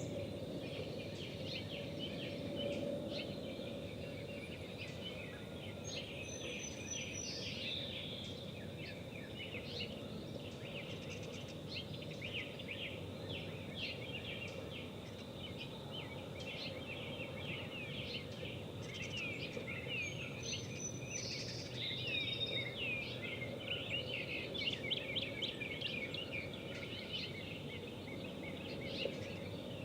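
Several birds chirping and singing over a steady low haze of outdoor noise, with a louder falling whistled call twice.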